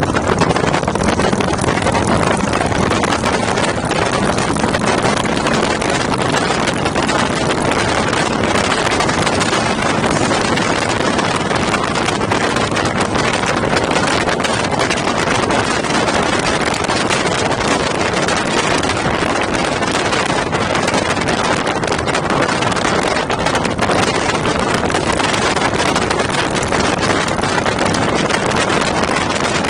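Steady wind rushing over the microphone of a moving motorcycle, with vehicle noise mixed in underneath.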